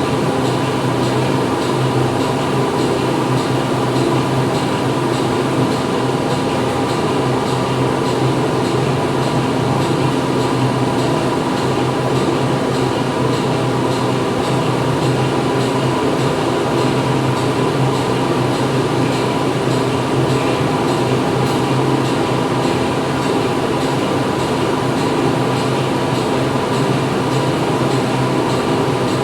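Steady factory machinery noise: a continuous hum with several steady tones over a dense mechanical din, unchanging throughout.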